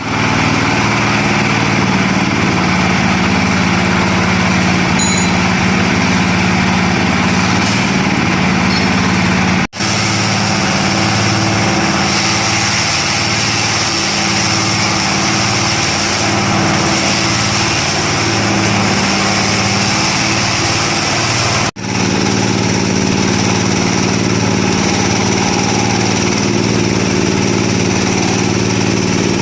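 Engine of an oil palm frond chopper machine running steadily at a constant speed, with two very short breaks in the sound about ten and twenty-two seconds in.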